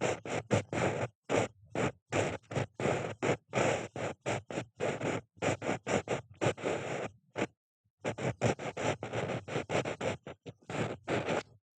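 Ear pick scraping and rubbing in an ear in quick short strokes, several a second, with a brief pause about three-quarters of the way through, close to the microphone.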